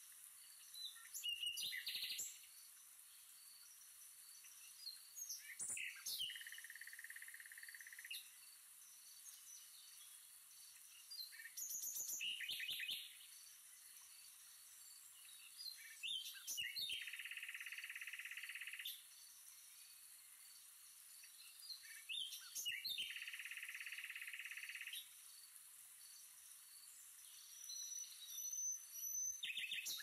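Birds chirping: every five to six seconds a cluster of sharp chirps, followed by a steady trill lasting about two seconds.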